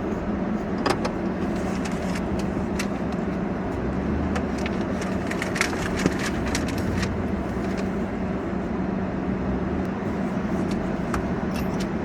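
A car driving slowly, with a steady engine and road hum and scattered light clicks and ticks.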